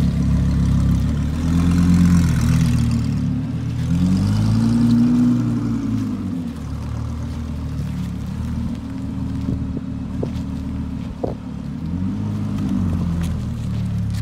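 Audi R8's V10 engine running as the car rolls slowly, its revs swelling up and back down a few times, most strongly about five seconds in.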